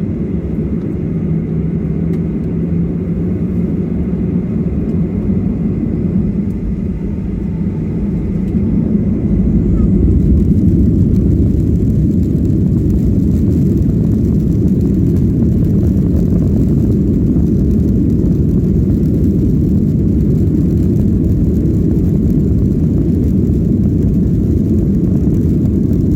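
Airliner jet engine and cabin noise heard from inside the cabin: a steady low rumble that grows louder about nine seconds in and then holds steady, as the engines come up to takeoff power.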